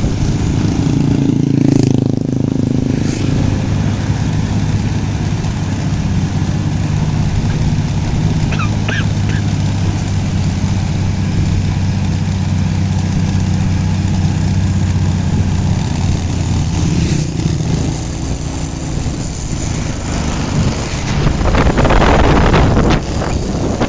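Truck engine running steadily, with a louder rush of noise near the end.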